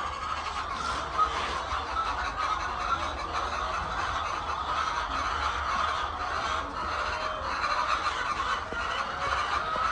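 A flock of laying hens calling, many birds at once in a steady mass of overlapping calls.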